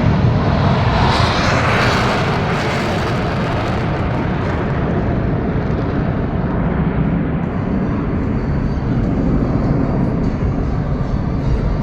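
Jet aircraft engines running loud and steady, with a hissing whoosh that swells about a second in and fades back over the next couple of seconds.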